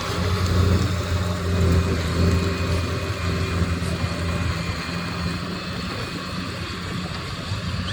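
Heavy diesel engine running steadily at a low, even pitch, growing slightly quieter toward the end.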